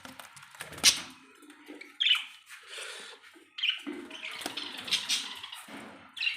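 A parrot giving several short, sudden squawks, with a sharp click about a second in.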